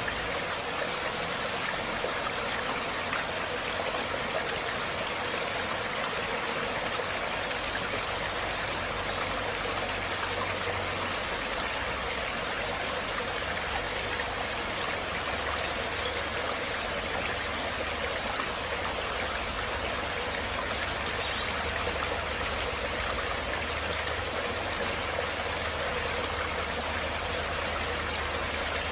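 Running water rushing steadily, an even unbroken wash with no splashes or drops standing out.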